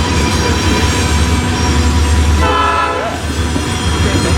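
A train rolling past at close range: a steady, heavy low rumble with thin, steady squealing tones from the wheels on the rail. A brief pitched sound stands out about two and a half seconds in.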